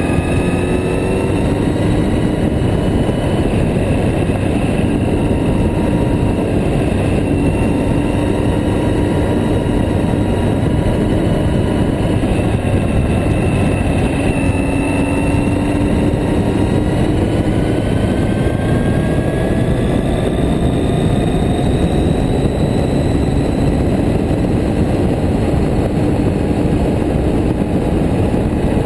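Yamaha Diversion motorcycle's air-cooled four-cylinder engine running at road speed, heard close to the engine with steady wind rush. The engine note rises and falls gently with the throttle, with no sudden events.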